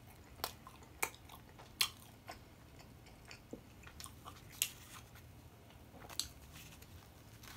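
Close-miked chewing of soft bread, garlic naan, with a dozen or so short, sharp wet mouth clicks scattered through it.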